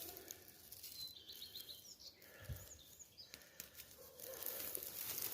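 Faint forest background with a small bird calling: a quick run of short high chirps about a second in, then a few more high notes a second or two later. A soft low thump comes in the middle.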